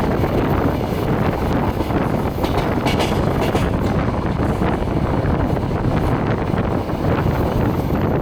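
Passenger train running along the track, heard from inside the carriage at the window: a steady loud rumble of wheels on rails mixed with wind on the microphone.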